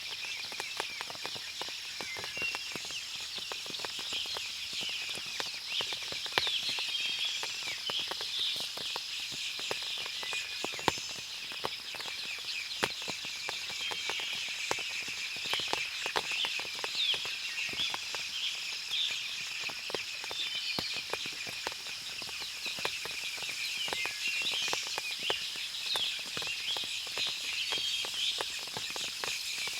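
Forest ambience after rain: many small birds chirping and twittering over a steady high insect drone, with scattered sharp ticks throughout.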